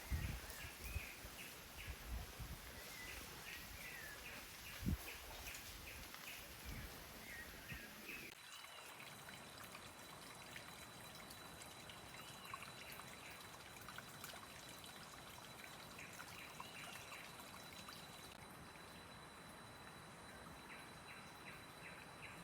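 Faint rainforest ambience: short chirping animal calls repeated in quick series over a steady hiss. There are low knocks in the first few seconds. After a change about eight seconds in, a thin steady high tone runs on.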